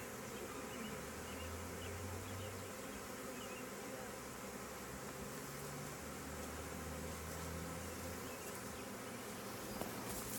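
Many honey bees of a swarm buzzing in flight around a nuc box as the swarm moves into it: a steady buzz with a low hum that comes and goes.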